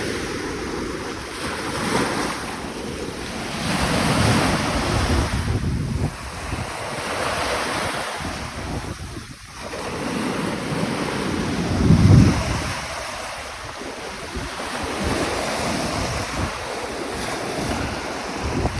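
Small waves breaking and washing up a sandy shore, surging and easing every few seconds with the loudest surge about twelve seconds in. Wind buffets the microphone throughout, adding a low rumble.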